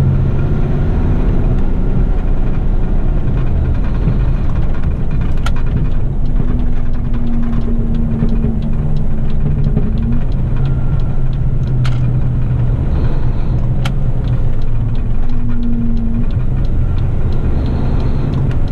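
Heavy rigid truck's diesel engine and road noise heard from inside the cab while driving: a steady low rumble whose engine note shifts up and down, with a few sharp clicks and rattles.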